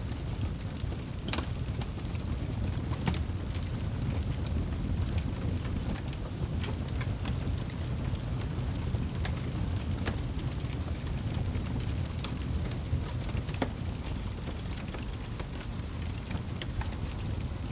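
Wood fire crackling in a fireplace: a steady low rumble of flame with frequent sharp pops and snaps scattered irregularly throughout.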